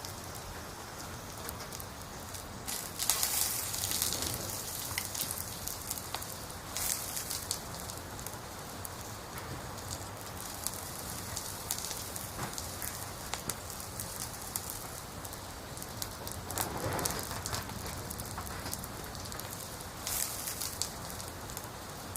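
Firewood burning in a campfire: a continuous crackle of small pops, with a few louder bursts of crackling about three seconds in, around three-quarters through and near the end.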